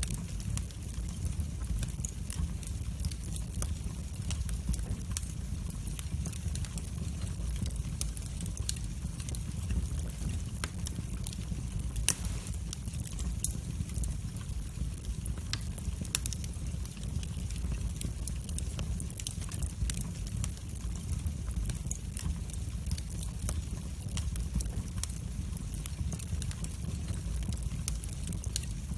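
Wood fire burning in a fireplace, crackling with scattered sharp pops over a steady low rumble; one louder pop about twelve seconds in.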